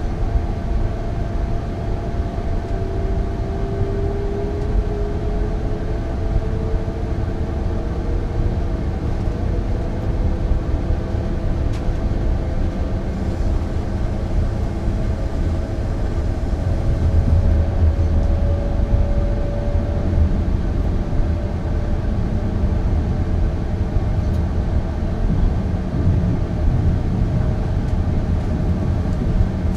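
Electric train running along the track, heard from the driver's cab: a steady low rumble with a motor whine that rises slowly in pitch over the first twenty seconds as the train gathers speed.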